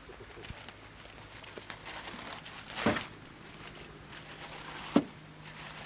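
Steady hiss of light rain, with two sharp knocks about two seconds apart, the second the loudest.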